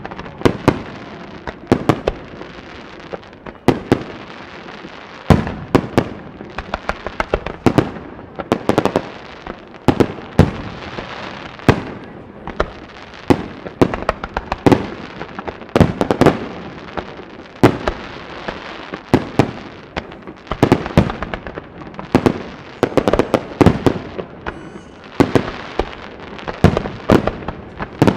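Fireworks display: aerial shells bursting one after another in a dense, uneven run of sharp bangs, at times several a second, each with a short ringing tail.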